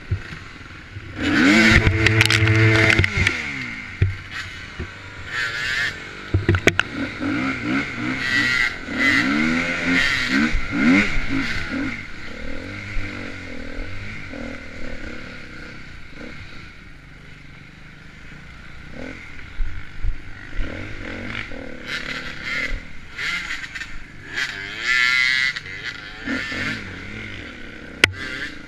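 Enduro dirt bike engine being ridden, revving up and down repeatedly, with scattered knocks and rattles.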